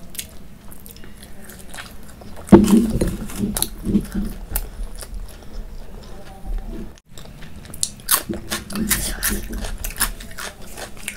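Close-miked chewing of soft flatbread dipped in kadhi: wet mouth sounds and many small clicks, with a louder burst about two and a half seconds in. The sound drops out briefly about seven seconds in.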